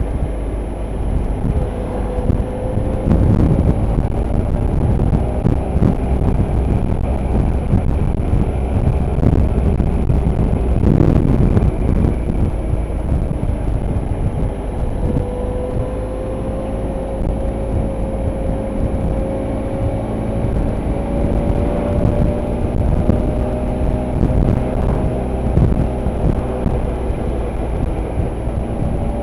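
Motorcycle engine running while riding, over a heavy low road and wind rumble; its pitch climbs gradually through the second half as the bike speeds up.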